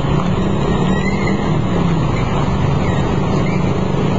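Steady city street traffic noise: engines of passing vehicles running in a continuous low rumble.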